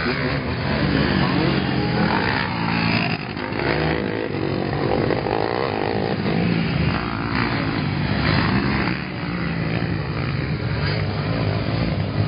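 Motocross dirt bike engines running and revving, the engine note rising and falling in pitch.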